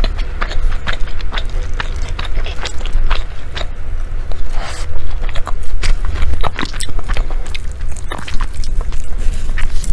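Close-miked chewing of savoury meat zongzi, a sticky glutinous-rice dumpling: many small, irregular mouth clicks and smacks as the rice is bitten and chewed.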